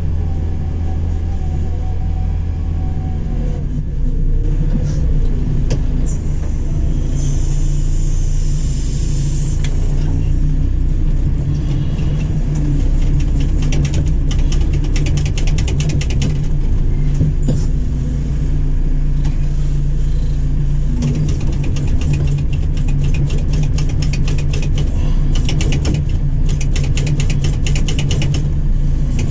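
JCB 4CX backhoe loader's four-cylinder diesel engine running under work, its note stepping up about four seconds in. A hiss comes in for a few seconds after that, and rapid clicking and rattling runs through the second half.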